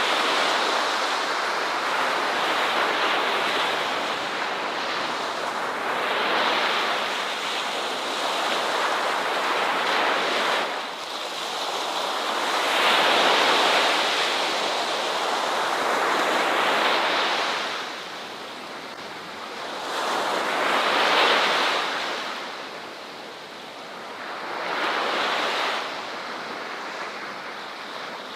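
Ocean waves washing in, swelling and easing off in surges every three to four seconds.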